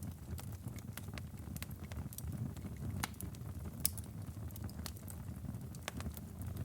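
Wood fire burning in a fireplace: a steady low rumble of flames with irregular sharp crackles and pops from the burning firewood, one pop a little before the four-second mark louder than the rest.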